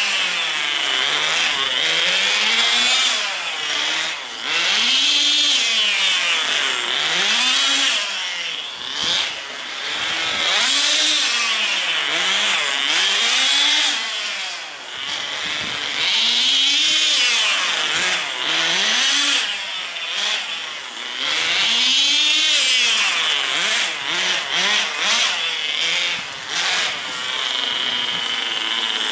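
Tamiya TGS 1/10 nitro RC car's small glow engine running at high revs, its buzzing pitch rising and falling over and over as the car speeds up, slows and passes.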